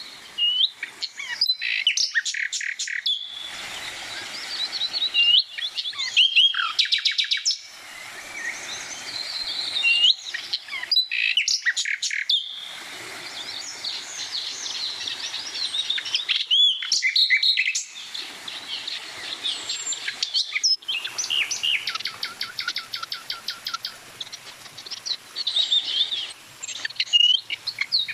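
Songbirds singing and calling: overlapping chirps, whistled notes and rapid trills, in bursts broken by short pauses.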